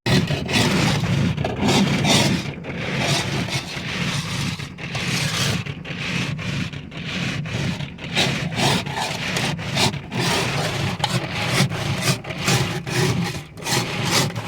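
Ice and crusted snow being scraped off by hand in repeated rasping strokes, which come quicker in the second half.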